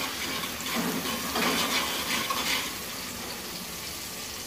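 Green chilli and garlic paste sizzling in hot oil in a steel pot, frying until the chilli loses its rawness. A steel spoon stirs and scrapes against the pot for the first few seconds, then only the even sizzle goes on.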